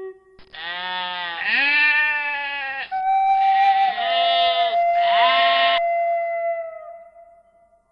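Three long bleats from a goat or sheep, each wavering and bending in pitch, the first the longest.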